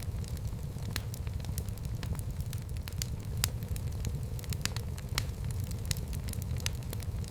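Wood fire burning in a fireplace: a steady low rumble of the flames with sharp crackles and pops at irregular moments.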